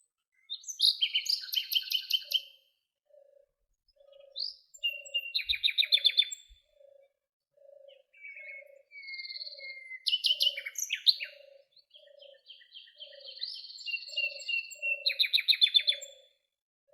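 Songbirds singing: short, high, trilled phrases with pauses between them, over a soft low note repeated about twice a second.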